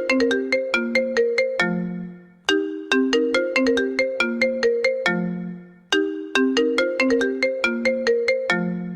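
iPhone incoming-call ringtone playing: a quick phrase of plucked, bell-like notes ending on a low note that fades away. The phrase repeats about every three and a half seconds.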